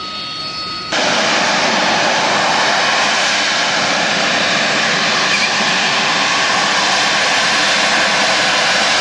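Harrier GR7's Pegasus jet engine: a whine with steady tones at first, then about a second in a loud, steady rush of jet noise comes in suddenly and holds.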